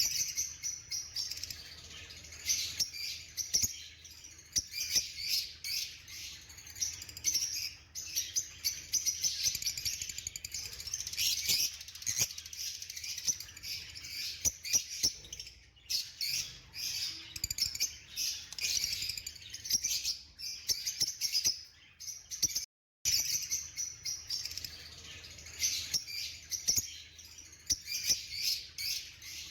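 Pet parrots chirping and chattering, many quick high calls overlapping without a break. The sound cuts out completely for a moment about 23 seconds in.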